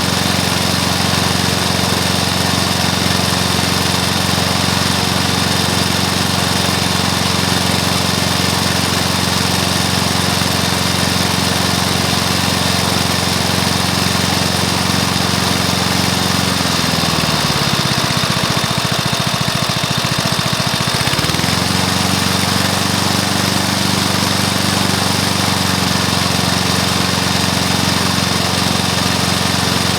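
Rebuilt Briggs & Stratton lawn mower engine, fitted with a new piston, rings and valves, running steadily. About halfway through its speed drops for a few seconds, then climbs back up to where it was.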